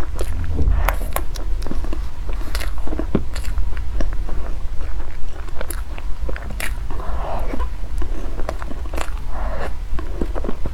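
Close-miked eating: bites and chewing with many sharp, irregular clicks and smacks of mouth and food.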